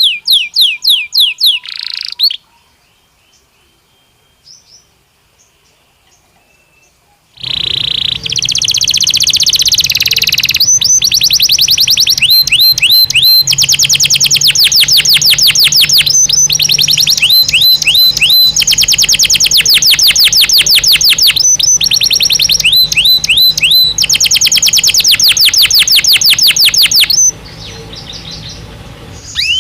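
Belgian canary singing in fast trills of rapidly repeated notes. The song breaks off about two seconds in and pauses for about five seconds, then resumes loud and near-continuous until it drops away shortly before the end.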